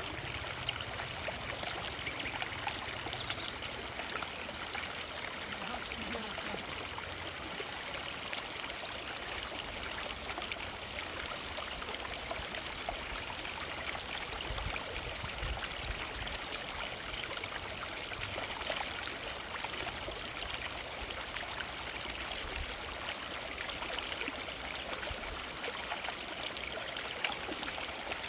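Forest river flowing steadily, water splashing and trickling over stones, with a low rumble beneath it.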